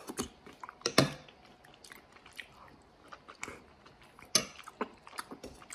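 A person chewing food with quiet wet mouth clicks, and a few sharper clicks about a second in and again after about four seconds.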